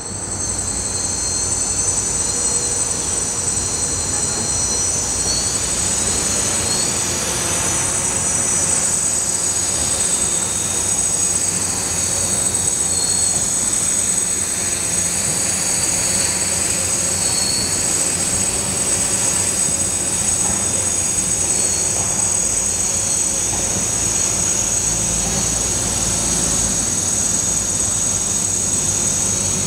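Hexacopter's six brushless motors and propellers running steadily, a constant prop hum with a high electric motor whine on top.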